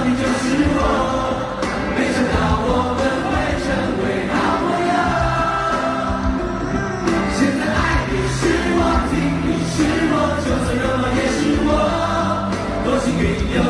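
Live band music at a concert, amplified and loud, with many voices singing together over a steady beat.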